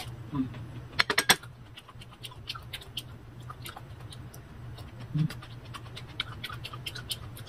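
Close-up chewing of crisp unripe green mango: a quick run of loud crunches about a second in, then softer scattered crunching. A short closed-mouth hum comes about five seconds in.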